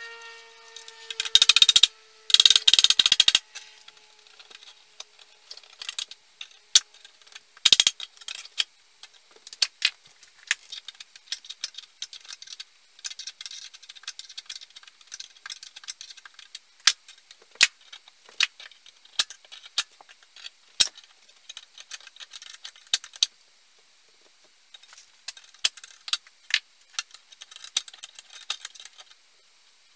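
Small metal parts and hand tools clicking and rattling as they are handled, with two loud rattles in the first few seconds and another about eight seconds in, then scattered light clicks.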